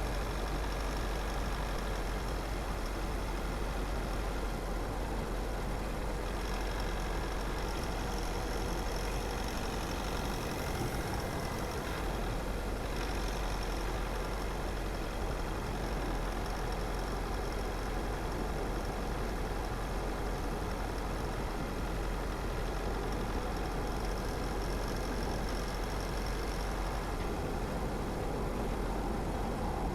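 Car driving along at a steady pace: engine and tyre-on-road noise with a deep, even rumble underneath.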